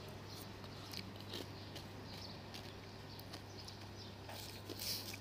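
Faint chewing and crunching of a mouthful of syrup-topped shaved ice, with scattered small clicks, over a steady low hum.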